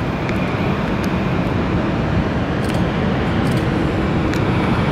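Boeing 747-400's four jet engines at takeoff power: a loud, steady, even roar.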